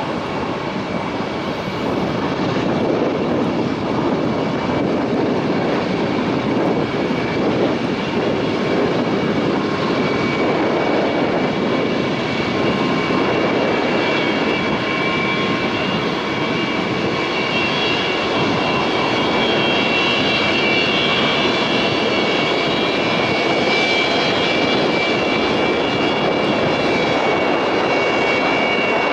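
Jet engines of a Boeing 737-700 on its landing approach: a steady rushing roar with a high fan whine that grows stronger in the second half as the aircraft comes closer.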